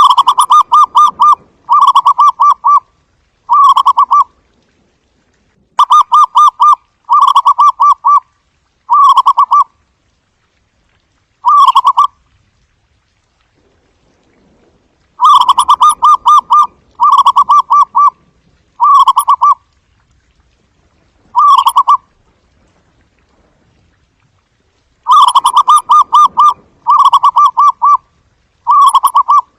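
Zebra dove cooing: loud, rapid staccato rolling coos, repeated in four bouts a few seconds apart. Each bout opens with a longer trilled phrase and trails off in shorter ones.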